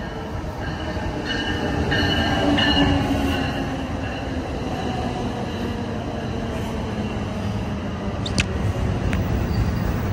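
NJ Transit MultiLevel double-deck commuter train rolling past alongside the platform, a steady rumble of wheels on rail with high wheel squeal in the first few seconds. There is a single sharp click a little after 8 seconds in.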